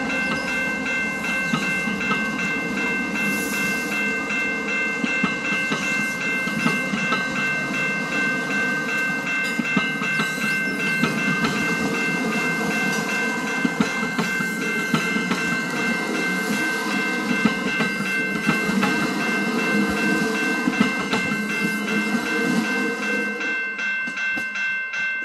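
EXO commuter train rolling past, a continuous rumble with wheels clicking over the rail joints and steady high-pitched tones held over it.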